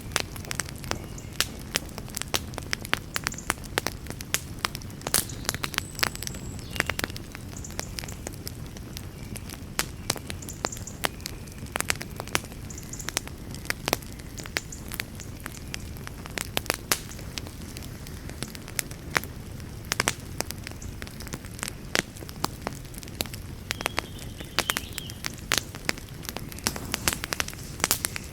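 Wood fire burning in a fireplace: a steady low rush of flame with frequent sharp, irregular crackles and pops.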